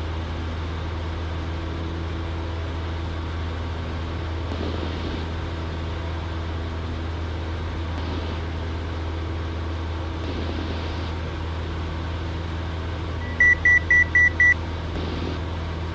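Steady low drone of a Cessna 172 in flight, heard through the cockpit headset audio. About thirteen seconds in comes a quick run of five short, high electronic beeps.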